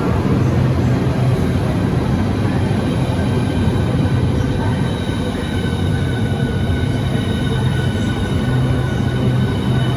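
Southeastern Class 395 high-speed electric multiple unit pulling into the platform, with a steady rumble and a set of steady high whining tones that come in a few seconds in.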